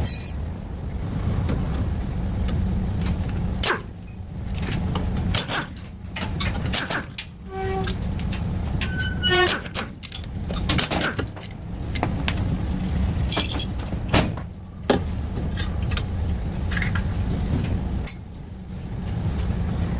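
Metal clinks and knocks from work on a car's suspension, some of them ringing briefly, over a steady low rumble.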